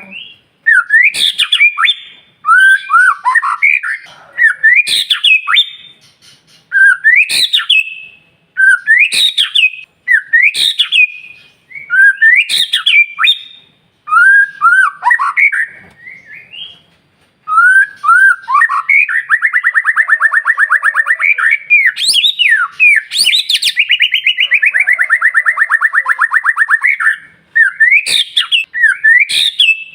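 White-rumped shama singing: short whistled phrases that glide up and down, with sharp clicks, repeated every second or two, and a long, fast, buzzing rattle lasting several seconds in the second half.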